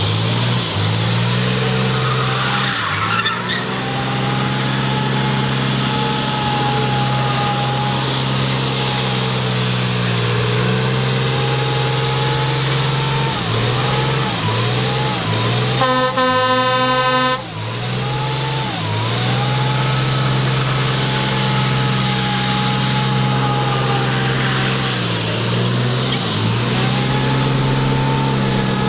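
Car engine held at high, steady revs, dropping off briefly every several seconds before climbing back. A car horn sounds once for about a second and a half near the middle.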